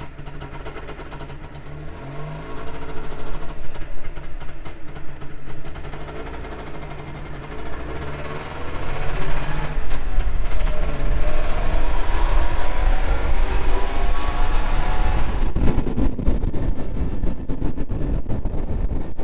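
Trabant 601's small two-stroke two-cylinder engine running on the move, getting louder about eight seconds in as it pulls harder, its pitch rising.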